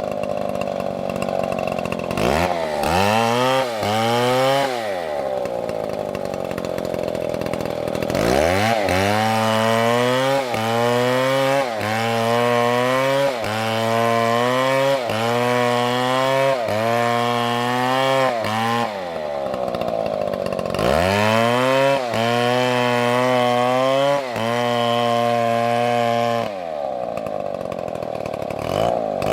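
Two-stroke chainsaw revving up and running at full throttle in long stretches, with small dips in pitch, then dropping back to idle between them. Each stretch ends at idle, which happens three times, and the saw revs up again near the end.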